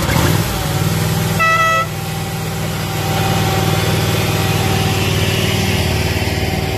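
Miniature ride-on train locomotive running steadily, with one short horn toot about a second and a half in.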